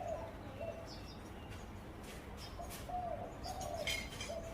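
Zebra dove cooing: a series of short, soft coo notes, a couple at the start and a run of several in the second half. Other small birds chirp faintly in the background.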